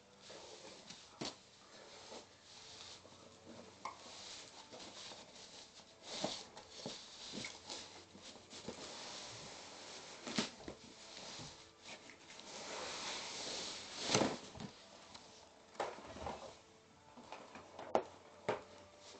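Packaging being handled and pulled open: rustling and scraping with scattered clicks and a few sharper knocks.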